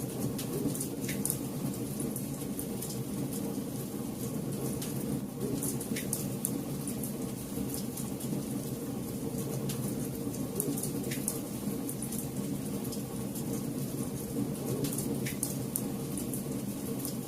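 Campfire burning: a steady low rushing under frequent small crackles, with a few louder pops spaced through it.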